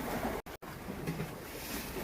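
Wind buffeting the microphone over the wash of sea waves, a steady rough rush, cut twice by brief dead dropouts about half a second in.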